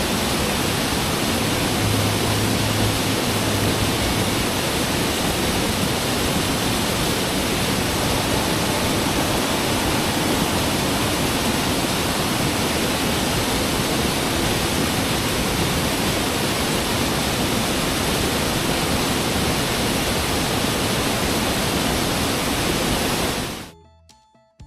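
Waterfall: a steady, loud rush of falling water that stops abruptly near the end.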